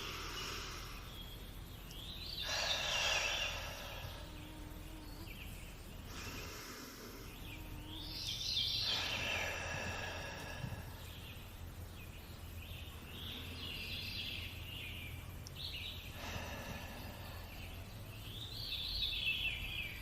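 Three slow deep breaths, each an inhale followed by a longer audible sighing exhale, spaced about six to seven seconds apart, over a faint nature-sounds background with birdsong.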